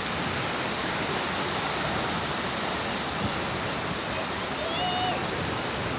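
Steady rush of sea surf, with a faint, brief wavering call about five seconds in.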